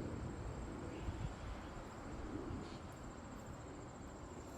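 Cricket trilling steadily at a high pitch, over a low, even background rumble.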